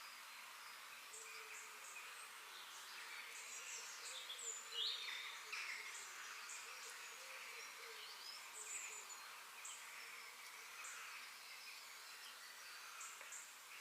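Outdoor birdsong: several small birds chirping and calling, with quick sliding notes, over a faint steady background hiss. A louder call comes about five seconds in.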